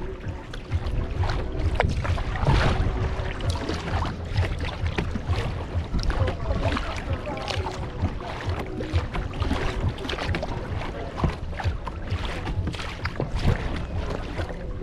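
Kayak paddling: irregular paddle splashes and water sloshing against the hull, with wind rumbling on the microphone.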